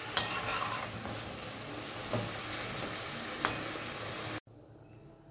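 Chicken pieces sizzling as they fry in oil in a metal kadai, with a metal spatula knocking against the pan: once sharply just after the start, and more lightly twice later. The sound cuts off abruptly near the end.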